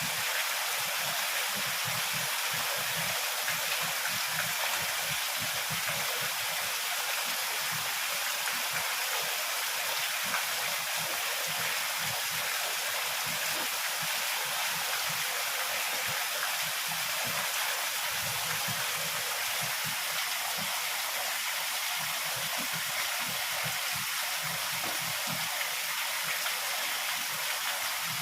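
Heavy rain falling in a steady downpour, an even hiss with no thunderclap.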